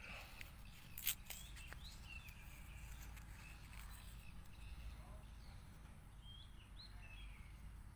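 Faint background ambience with a few short bird chirps, and one sharp click about a second in.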